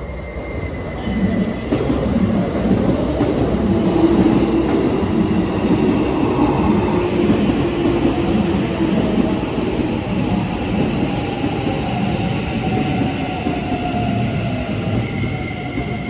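Keikyu electric train running alongside the platform: a loud rumble of wheels on rails and a traction-motor hum. Its tone slowly falls in pitch through the second half.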